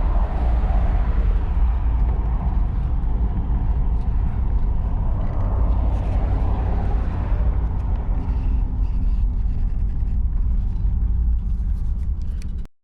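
A 1953 Oldsmobile Super 88 on the move: a steady low rumble of its V8 engine and the road, cutting off suddenly near the end.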